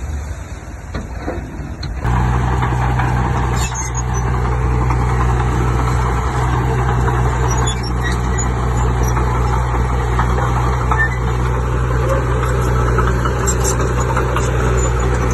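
Heavy diesel engine of an earthmoving machine running steadily. A louder, even engine sound comes in suddenly about two seconds in, after a quieter rumble.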